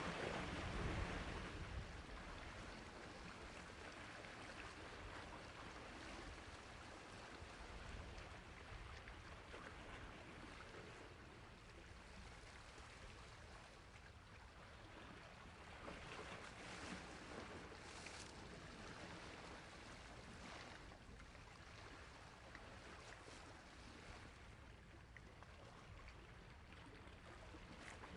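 Sea waves washing on a shore, a soft continuous wash with a stronger surge in the first couple of seconds and gentler swells later on.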